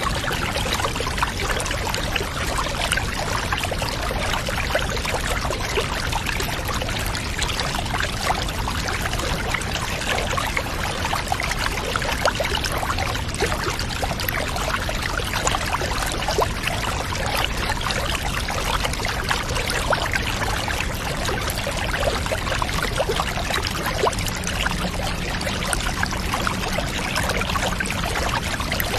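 Water pouring and trickling steadily, a continuous even wash of sound with no pauses, as of a bath being filled or soaking-tub ambience.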